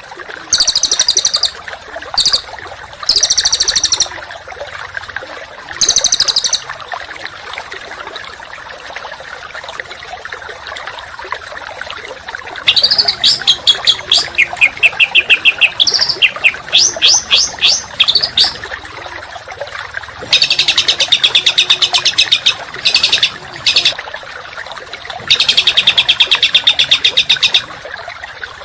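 Songbird giving harsh, rapid buzzy bursts of call: four short ones in the first seven seconds, a fast run of sharp falling notes in the middle, then two longer, dense, rasping bursts near the end. A steady hiss sits under it throughout.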